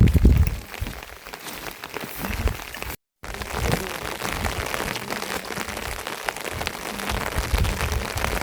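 Steady rain falling, with many individual drops pattering on nearby surfaces. A low rumble sits under it at the start and again near the end, and the sound cuts out for a moment about three seconds in.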